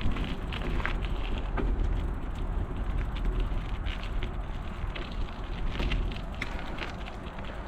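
Wind buffeting the microphone on a moving bicycle, with irregular clicks and rattles from the bike over a rough path.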